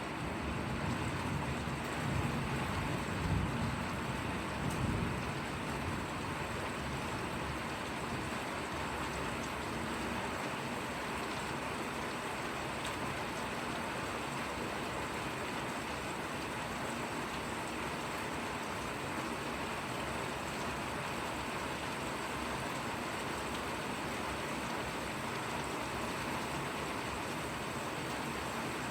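Steady rain falling, an even hiss. A low rumble swells and fades a few times in the first six seconds.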